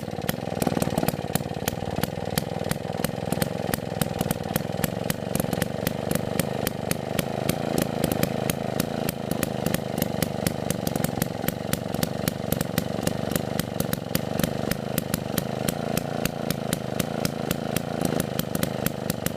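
Restored Villiers MK25C two-stroke stationary engine running steadily, with an even, rapid train of sharp firing strokes.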